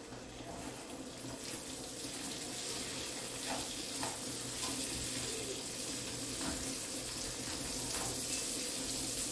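Diced calabresa sausage sizzling in butter and olive oil in a frying pan: a steady hiss that slowly grows louder, with a silicone spatula stirring the pieces and knocking lightly against the pan a few times.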